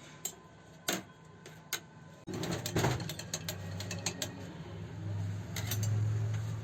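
Metal parts of an old Revo 81-3 overlock sewing machine clicking and clattering as it is worked on by hand: a few separate clicks at first, then a quicker run of clicks over a low hum that grows louder near the end.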